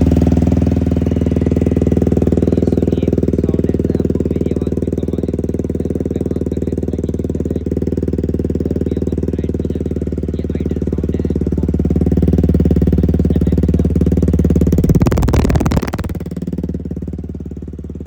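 Fully modified TVS Apache motorcycle's single-cylinder engine idling steadily through an Akrapovic full-system exhaust, just after starting. About 15 seconds in it is revved once, then it settles back to a quieter idle.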